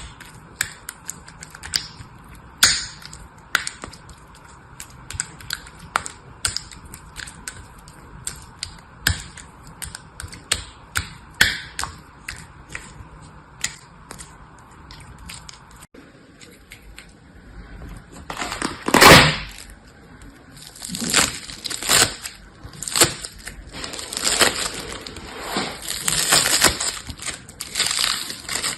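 Crisp clicking and crunching from something being handled close up: a run of sharp separate ticks over a faint hum, then, after an abrupt change about halfway, louder irregular crunching and crackling strokes, the loudest about 19 s in.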